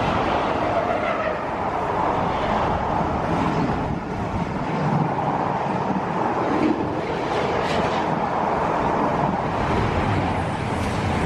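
A train passing close by, a steady rushing rumble with a few faint clicks later on.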